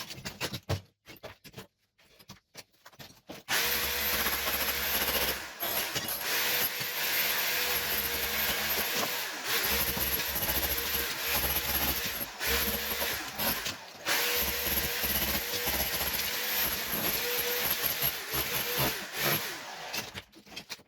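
Handheld electric power tool running, starting suddenly after a few light clicks and knocks, then running hard with a steady motor whine and only brief dips, as used to strip old wall tiles in a kitchen.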